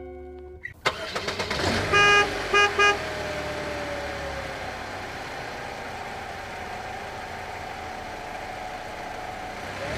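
A vehicle horn honks twice, one short blast right after another, then a steady engine-like hum carries on.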